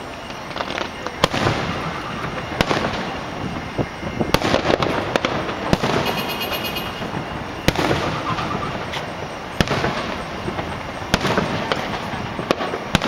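Aerial fireworks shells bursting overhead: a string of sharp booms a second or two apart over a continuous noisy wash.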